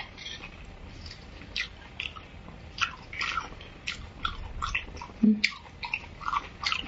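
Close-miked wet chewing and mouth clicks of a person eating soft beef bone marrow: a string of irregular short clicks and smacks, with a dull thump about five seconds in.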